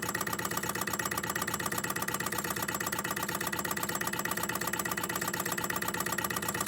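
Empire B-38 electrically heated hot air (Stirling) engine running steadily and well, with a fast, even mechanical rhythm that holds the same speed throughout.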